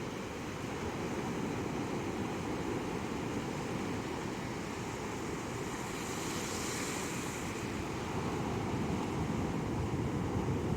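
Surf washing onto a sandy beach, with wind on the microphone adding a low rumble; a wave washes in with a louder hiss about six to seven seconds in.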